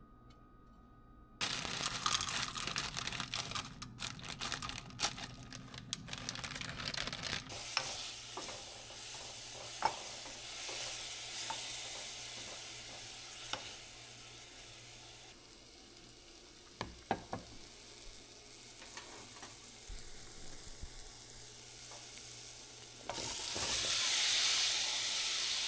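Food sizzling in a hot frying pan. It starts suddenly about a second and a half in and keeps going, with sharp clicks and scrapes of a utensil stirring, and it grows louder near the end.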